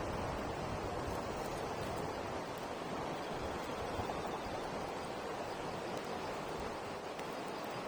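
Wood campfire burning, with a few faint sharp crackles over a steady rushing noise.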